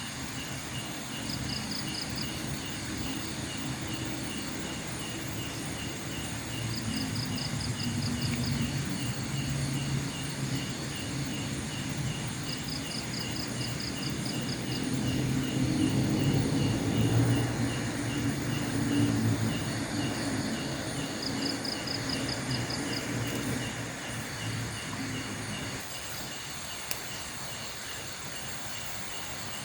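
Night insects chirping steadily, with short fast trills repeating every few seconds, over a low rumble that swells in the middle and fades out near the end.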